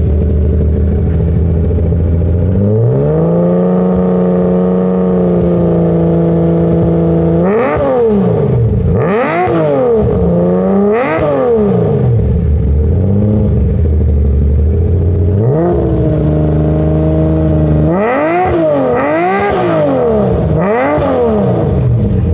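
Nissan S20 2.0-litre DOHC straight-six of a Hakosuka Skyline GT-R being revved through its twin-tip exhaust: from idle it climbs to a held higher speed for a few seconds, then gets three quick sharp blips before falling back to idle. The same rise, hold and blips come once more near the end, a powerful roar.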